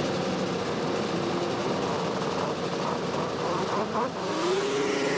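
Two-stroke race snowmobile engines running, with one engine's pitch rising about four seconds in as it revs.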